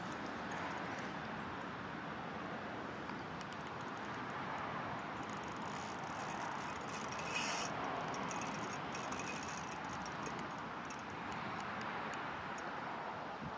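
Steady rushing outdoor noise, with a brief louder moment about seven and a half seconds in and a few faint clicks.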